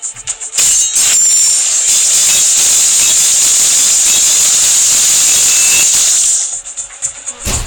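A loud, steady hiss that starts about half a second in and cuts off about six seconds later, with quieter rapid clicking before and after it.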